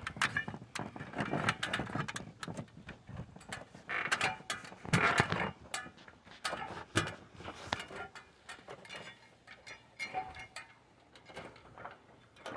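Ladder creaking and clanking as someone climbs down it: irregular clicks and knocks, busiest in the first half.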